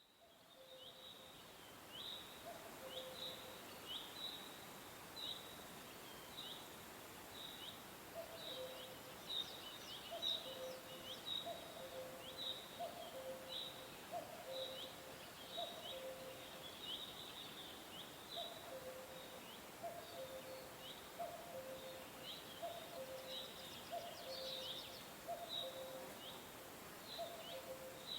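Birds chirping: short, high chirps repeat about once or twice a second, over a lower two-note call that comes about once a second. A steady outdoor hiss runs underneath.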